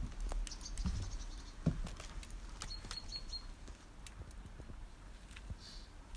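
A small bird gives a quick series of short, high chirps about halfway through, over scattered clicks and rustling and a low background rumble.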